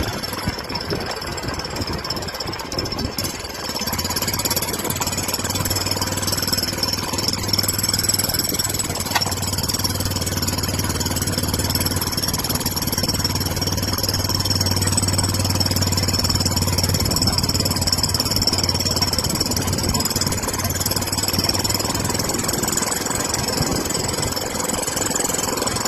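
Hero Splendor Plus single-cylinder four-stroke engine running through an aftermarket GCL silencer, a steady exhaust note that gets louder about four seconds in.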